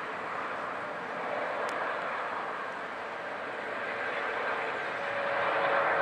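Jet airliner's engines running, a steady rushing noise with faint humming tones, growing louder towards the end.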